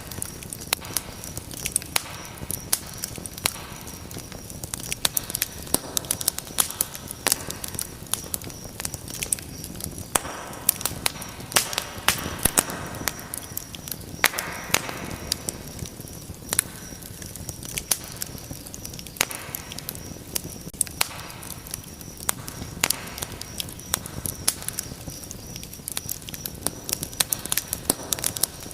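Wood fire crackling: irregular sharp pops and snaps over a soft steady rush of flames.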